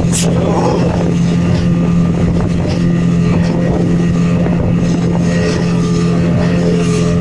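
Speedboat engine running steadily at speed, a constant drone, with wind buffeting the microphone and a few brief splash-like clicks.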